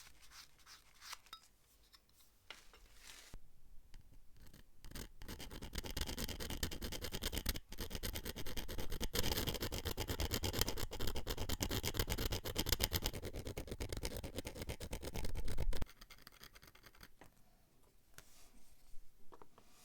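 Rapid, dense scratching strokes of scrubbing on a small metal part, building up over the first few seconds and cutting off suddenly about three-quarters of the way through, followed by a few fainter scratches.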